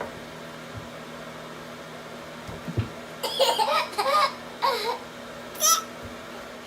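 Baby laughing in a run of short high-pitched bursts about halfway through, then one high squeal, over a steady low hum.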